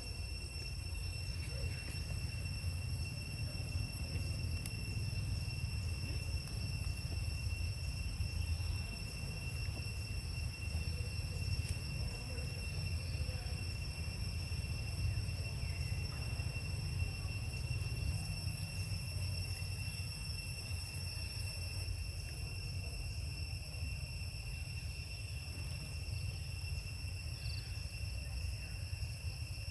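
Steady, high-pitched insect drone, one unbroken tone with overtones, over a low rumble.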